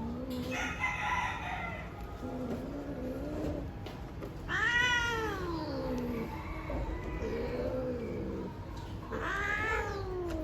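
Domestic cats caterwauling in heat: a series of long, drawn-out calls that arch up and down in pitch. The loudest call comes about halfway through and another comes near the end, with lower calls in between.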